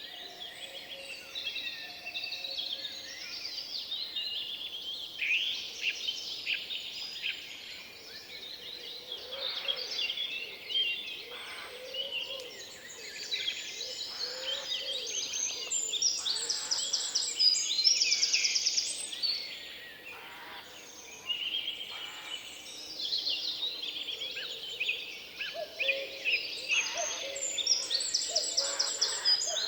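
Several songbirds singing at once: overlapping chirps and trills, with fast runs of high repeated notes.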